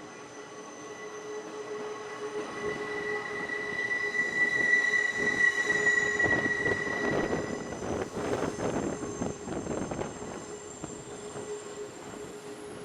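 Electric train's steel wheels squealing on the rails: a high, steady squeal with a lower tone beneath it, growing loudest around the middle and fading out, followed by rumbling, clattering wheel noise.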